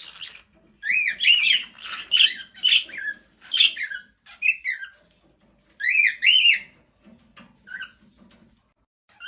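A bird giving a series of short, shrill calls, each note rising and then falling in pitch, in clusters with short pauses between them.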